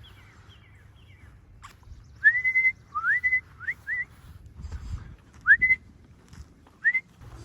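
A person whistling: six short whistles that each slide upward and level off on a high note, the first one held a little longer.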